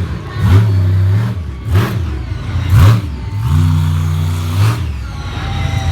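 Monster truck engine revving hard in a series of quick blips that rise sharply in pitch. It then holds a higher, steadier note for about a second before dropping back.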